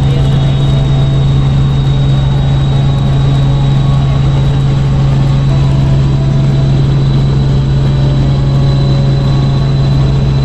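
Steady, loud aircraft drone with a constant high whine above it.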